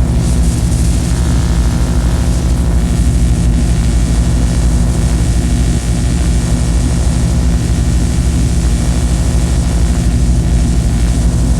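Harsh noise music: a loud, steady drone of layered low humming tones under a wash of hiss, with no beat or melody.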